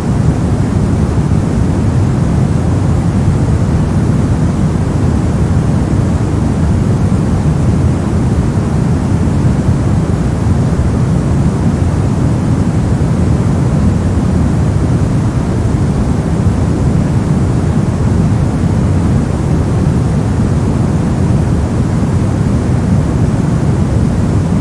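Continuous generated white noise: a steady, even rush, deep in tone, with no changes.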